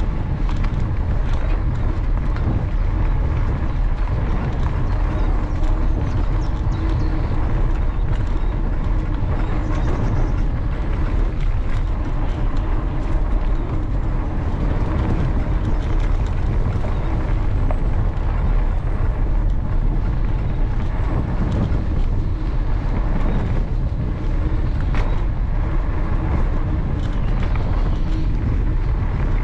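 Riding noise from a mountain bike on a canal towpath, heard on a bike-mounted action camera: a steady low rumble of wind on the microphone and tyres rolling over the path, with frequent small clicks and rattles from bumps.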